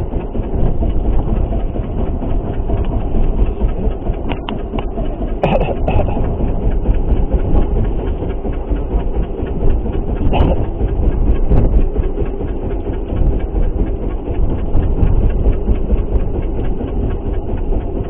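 Steady heavy rumble of a boat on rough sea, with a few brief knocks along the way.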